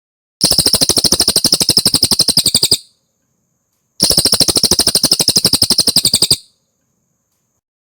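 Cililin songbird singing two loud bursts of fast, evenly repeated notes, each about two and a half seconds long, with a pause of about a second between them.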